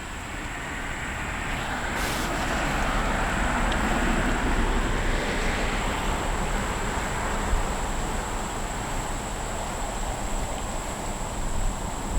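A steady rush of passing traffic that swells over the first few seconds and then slowly fades.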